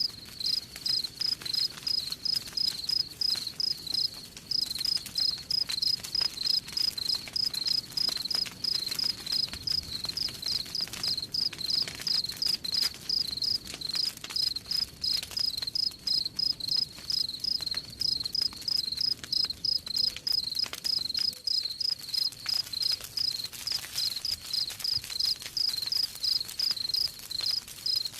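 Crickets chirping steadily, about three to four high chirps a second, with the faint crackle of a campfire underneath.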